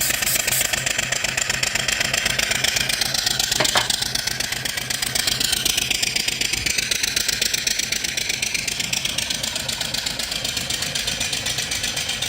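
Vertical single-cylinder steam engine running steadily under steam from its coal-fired boiler, with a fast even beat and a strong hiss of steam that swells a few seconds in. One short click is heard about four seconds in.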